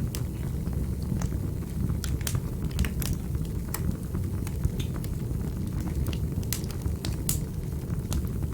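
Fire in a fireplace crackling: a steady low rumble of the flames with irregular sharp pops and snaps, several a second at the busiest moments.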